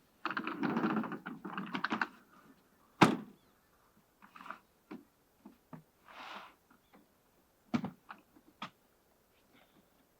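Handling noises: about two seconds of rustling and clattering, then a single sharp knock. After that come scattered lighter clicks and thuds, with a short rustle in the middle and two more knocks later.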